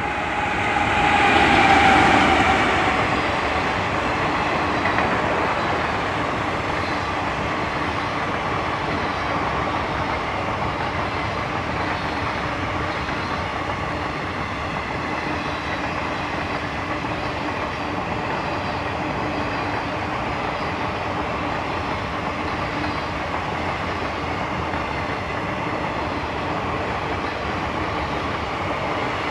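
A WAG7 electric locomotive and its train of NMG wagons passing: steady rumble and wheel clatter on the rails, loudest about two seconds in, then level.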